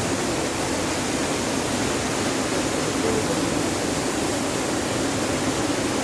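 Waterfall rushing steadily, water falling from a great height.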